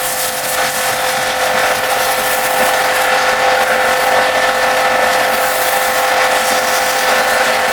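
A motor-driven cleaning machine running steadily: a constant whine under a loud, even hiss of spray or air.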